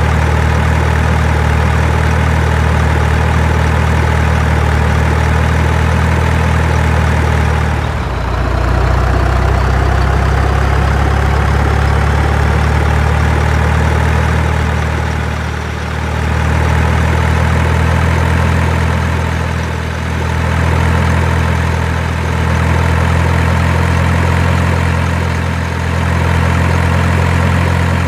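Heavy diesel engine running steadily at idle, its pitch shifting slightly about eight seconds in, with a few brief dips in level.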